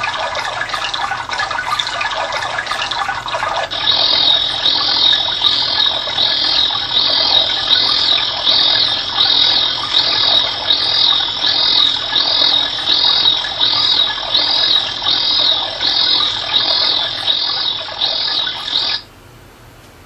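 Natural-sound auditory stimulus for an auditory steady-state response test. A running-water sound plays for the first few seconds, then gives way to high repeated chirping calls, about one and a half a second. The chirps stop abruptly about a second before the end.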